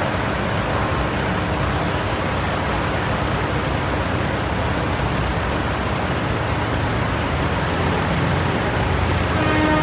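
Antique pulling tractor's engine running steadily, a low drone at an even level with no change in pitch.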